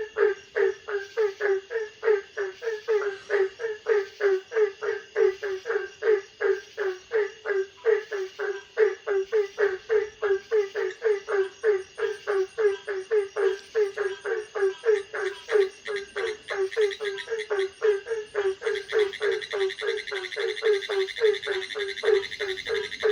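Frogs calling in a night chorus: a steady run of short croaking calls, about three a second. A faint high steady hum sits under it, and a higher, faster trill joins about two-thirds of the way through.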